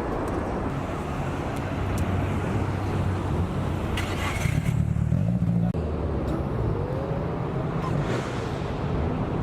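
Car engines running with a steady low rumble. It grows louder for a couple of seconds about halfway through, then drops off abruptly.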